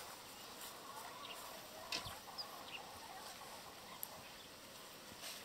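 Faint outdoor background with a few short bird calls, the loudest about two seconds in.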